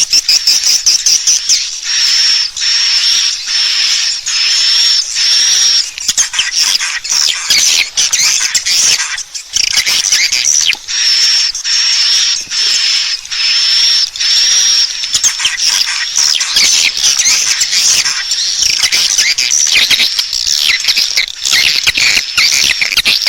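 Swiftlet call recording used as a lure for nesting swiftlets: a loud, dense, continuous chatter of high chirps and twitters, with runs of short, evenly spaced high notes.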